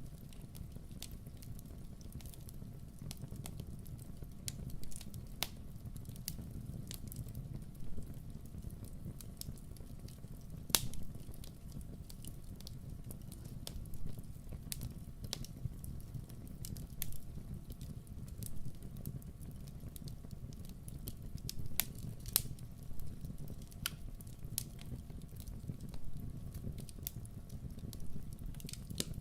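Campfire burning: a steady low rumble of flames with irregular sharp crackles and pops from the burning wood, one pop about 11 seconds in louder than the rest.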